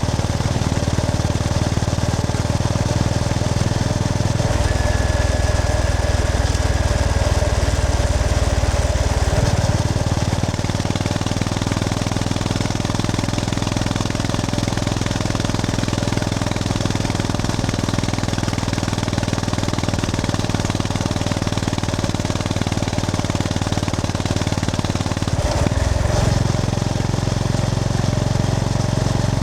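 Honda GB350S motorcycle's air-cooled single-cylinder engine running while the bike is ridden, a steady thumping note that changes pitch in steps a few times, at about 4 seconds in, about 9 seconds in and near the end, as the rider works the throttle and gears.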